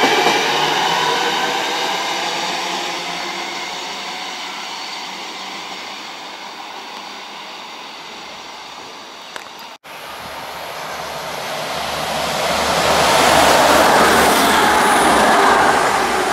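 A Northern electric multiple unit running away along the track, its wheel and motor noise fading steadily. After a sudden cut, another train's low rumble and rush of wheels build to loud, then cut off abruptly.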